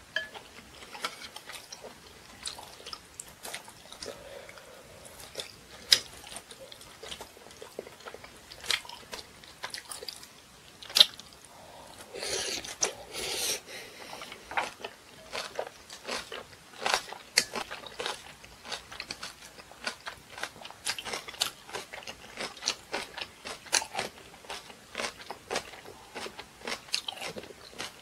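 Close-miked mukbang eating sounds: a person chewing and biting a mouthful of rice-cake dumpling soup and spicy kimchi. There are many short crunches and sharp clicks, the loudest about six and eleven seconds in.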